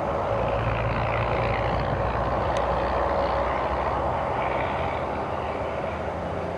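Jet airliner engines heard across the airfield: a steady, loud rushing noise with a low hum beneath, swelling through the middle and easing off slowly near the end.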